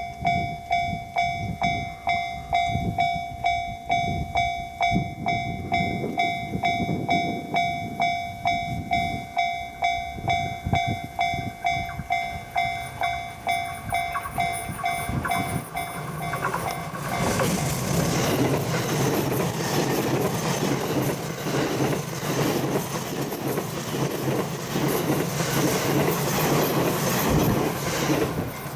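A railway level-crossing warning bell rings with a steady repeated ding over heavy wind buffeting on the microphone. About 17 seconds in, a Series E353 limited express electric train runs past, its running noise covering the bell.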